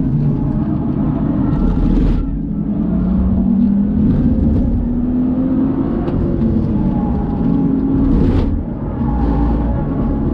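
BMW engine heard from inside the cabin on track, pulling hard under full throttle with its pitch rising, then easing off to light throttle near the end, with tyre and road noise underneath.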